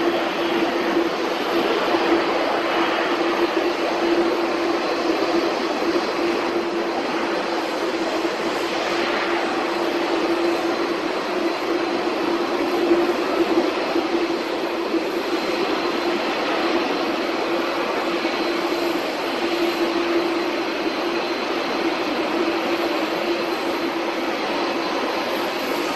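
Boeing 777-300ER's twin GE90 jet engines running, a steady loud rush with a constant low hum underneath.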